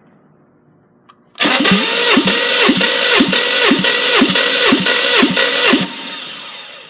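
Starter motor cranking a Subaru EZ30 3.0 L flat-six engine without it firing, as in a compression test. The cranking pulses about twice a second for some four seconds, stops suddenly, and leaves a short fading whir.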